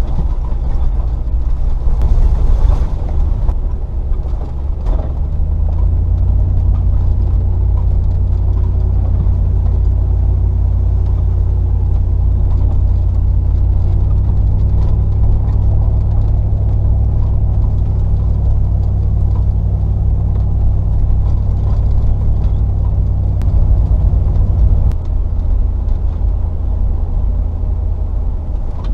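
Range Rover P38's 4.0-litre V8 engine running under load while driving, its note stepping up twice, about six and fourteen seconds in, and dropping back near the end. A couple of brief knocks in the first five seconds.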